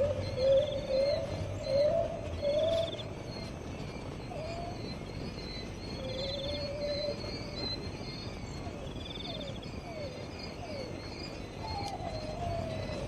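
Animal calls: four loud warbling phrases in the first few seconds, then scattered short sliding notes and a long falling call near the end. Under them runs a short high trill that repeats every couple of seconds, like an insect.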